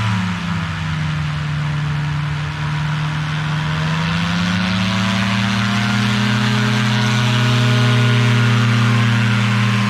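Light aircraft's propeller engine running, its pitch dipping just after the start and then climbing from about four seconds in to hold higher as the power comes up.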